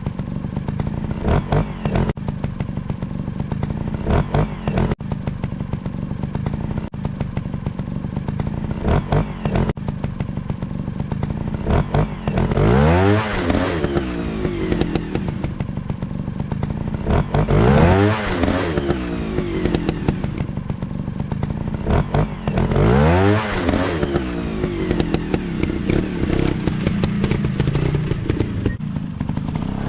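Motocross dirt bike engines running, with a bike revving hard or passing close four times in the second half, the engine pitch sweeping up and down each time.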